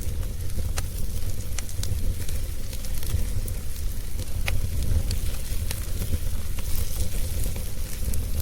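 Wood fire burning in a fireplace: a steady low rumble of the flames with scattered sharp crackles and pops from the logs.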